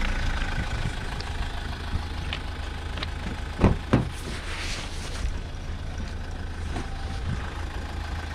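A vehicle engine running steadily at idle, with two short thumps about three and a half and four seconds in.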